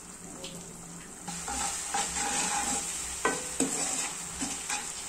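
Chopped onions, garlic and green chillies sizzling in hot oil with soy and chilli sauces in a pan, stirred with a wooden spatula. The sizzle grows louder about a second in as the stirring starts, with a few sharp scrapes of the spatula against the pan.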